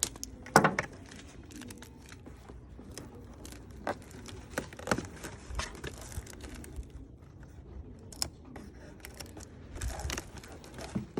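Cardboard shipping box and packing tape being handled: irregular rustles, crinkles and light taps, with a sharp knock about half a second in.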